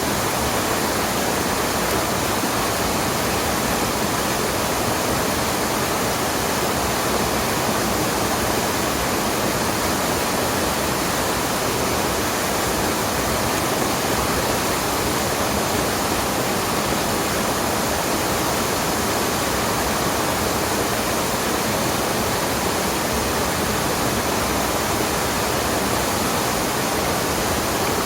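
Steady, even rush of water from a waterfall on a mountain stream.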